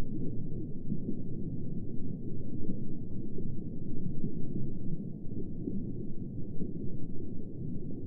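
Recorded underwater ambience: a steady, muffled low rumble of water with no high sounds in it.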